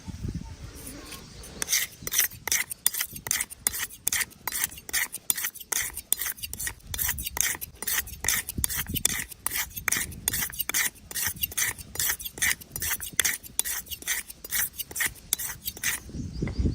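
Razor shaving hair in quick, short strokes, about three scrapes a second, starting about a second and a half in.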